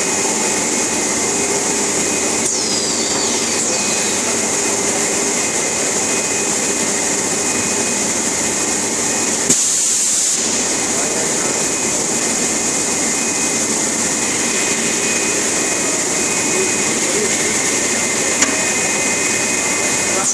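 Polyethylene pipe extrusion line running: a steady machine whir with a high hiss and a few constant whining tones. About halfway through, the sound briefly thins to a sharper hiss for about a second.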